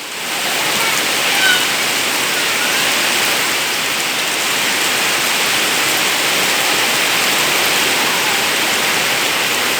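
Heavy tropical rain pouring down, a steady, loud hiss of water that builds up in the first half-second and then holds.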